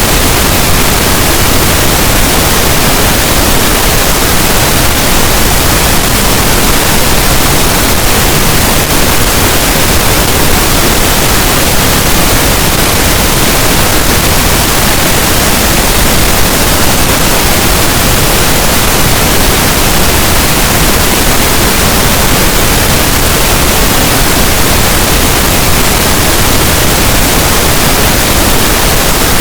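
Pink noise: a steady, loud, even hiss that does not change.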